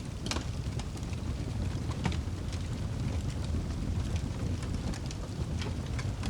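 Wood fire burning with a steady low rumble and scattered sharp crackles and pops, two of them louder, near the start and about two seconds in.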